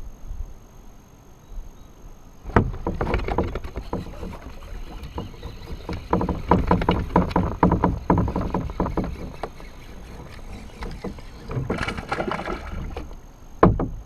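Knocks and clatter against a kayak's hull, with some water noise, starting with a sharp knock after a quiet start and ending with another sharp knock.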